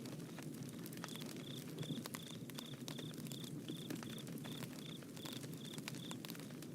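Bonfire burning with a steady low rush and frequent sharp crackles and pops. Over it, a run of short high chirps repeats evenly, a couple of times a second, from about a second in until near the end.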